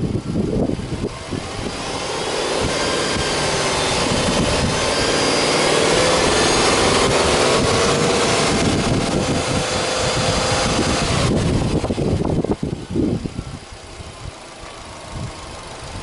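Subaru Legacy B4 2.0GT spec.B's turbocharged EJ20 flat-four, free-revved with the hood open. The engine speed climbs over a few seconds and is held, then the throttle is released about eleven seconds in and it falls back to idle.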